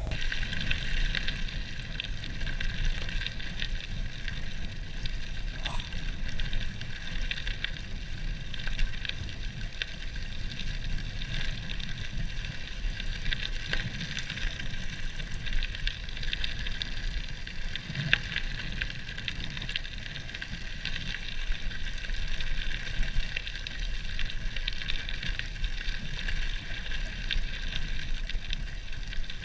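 Cannondale Topstone 4 gravel bike being ridden: a steady crackling crunch of tyres rolling over gravel, over a low rumble of wind on the microphone.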